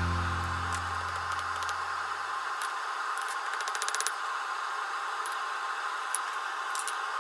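A low sustained musical note rings out and fades away over the first two or three seconds. After it comes a steady hiss with scattered light metallic clicks and clinks, including a quick rattle of them about four seconds in.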